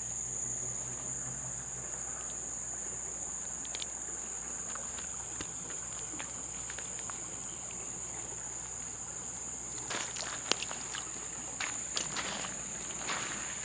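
Steady high-pitched chorus of insects calling in summer, with scattered clicks and rustles from about ten seconds in.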